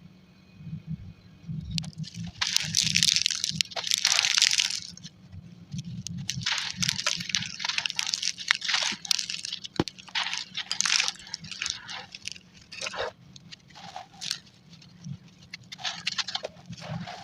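Gritty, crumbly chunks being crushed and broken apart, sped up to double speed: irregular bursts of crunching and crackling with scattered sharp snaps, heaviest in the first half.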